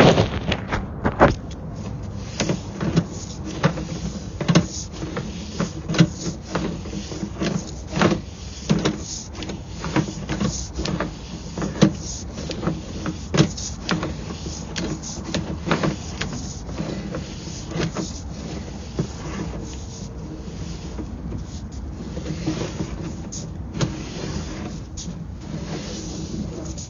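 Sewer inspection push camera being fed down a lateral: irregular clicks and knocks, about one or two a second, over a steady low hum, fewer knocks near the end.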